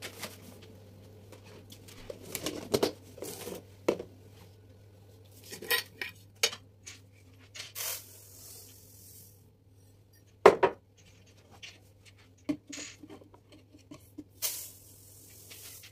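Kitchen containers and dishes being handled and set down: scattered clinks and knocks, with two brief hissing sounds and a faint low hum underneath.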